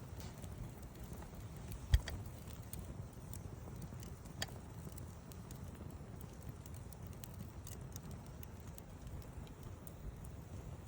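Wood campfire crackling: scattered small snaps over a low, steady rumble of burning. One loud pop about two seconds in and a smaller one a little after four seconds.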